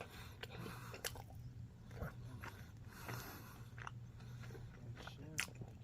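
Faint chewing and mouth clicks from a person eating a sub sandwich, over a steady low hum in the room.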